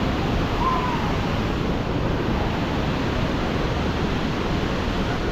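Heavy waterfall and fast river water rushing steadily, with wind buffeting the microphone.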